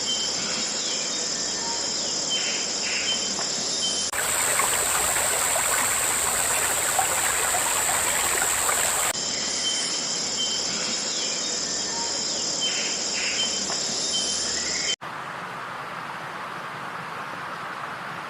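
Insects calling in a steady, high, continuous trill. About four seconds in it switches abruptly to a louder, harsher buzz for about five seconds, then the trill returns. Near the end it changes suddenly to a quieter, even hiss.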